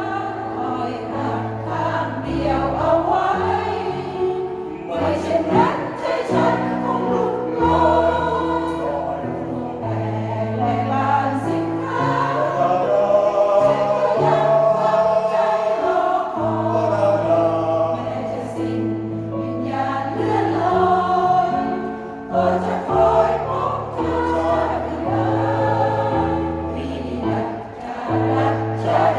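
A senior choir singing a song, with long held low notes under the voices.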